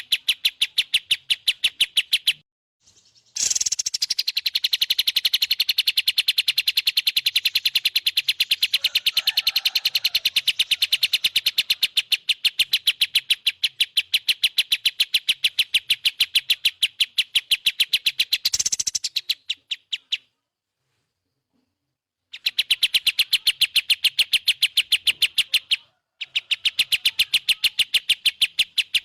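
Recorded songbird chirps played as a training track: a fast, perfectly even series of short high chirps, several a second. It breaks off briefly about two and a half seconds in, stops dead for about two seconds after the middle, and breaks briefly again near the end.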